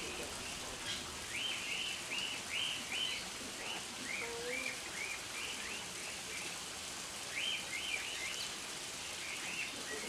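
Small birds chirping: quick runs of short, high chirps in several bursts, over a steady hiss.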